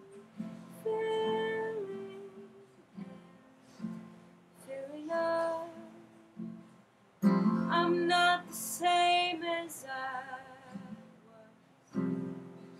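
Slow song accompanied on acoustic guitar, strummed and picked, under a singing voice holding long, wavering notes between phrases, with fuller strummed chords about seven seconds in and again near the end.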